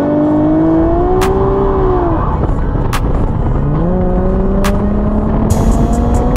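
Car engine revving: the pitch climbs, holds high, falls away about two seconds in, then climbs again and keeps rising slowly. Sharp clicks come about every second and a half to two seconds.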